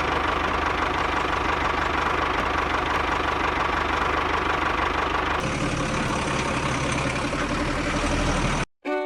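An engine idling steadily with a low, even pulse, in two stretches joined by a cut about five and a half seconds in, and stopping abruptly just before the end.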